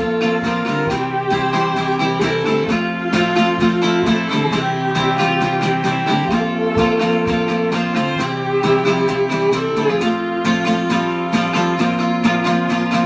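Live chamber-folk instrumental passage: acoustic guitar picked in a steady rhythm, with viola playing sustained notes over it.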